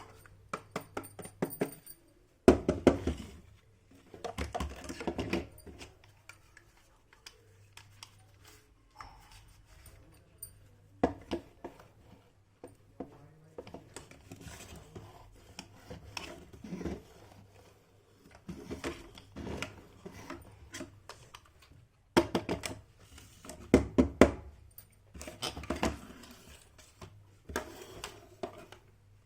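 Small plastic toy pieces and their packaging being handled and set down: irregular runs of clicks, taps and light knocks, louder in clusters with quieter stretches between.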